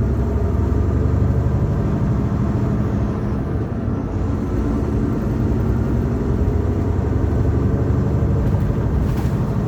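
Semi truck's diesel engine and road noise heard inside the cab while driving: a steady low drone.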